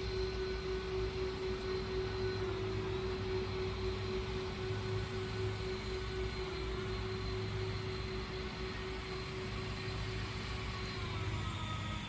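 Leaf blower running at high speed with a steady whine over a rushing hiss. The pitch dips briefly twice and drops near the end as it is throttled back.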